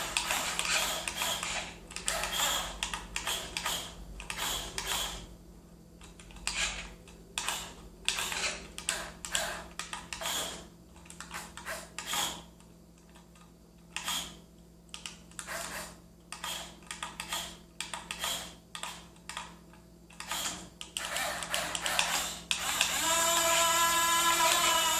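Small electric motor and gearbox of a radio-controlled scale model whirring in many short, irregular bursts as it is driven in stops and starts, then running steadily with a whine about two seconds before the end.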